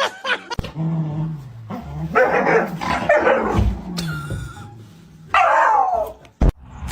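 A dog barking and yipping in several separate calls, with a falling cry about five seconds in, and a sharp knock near the end.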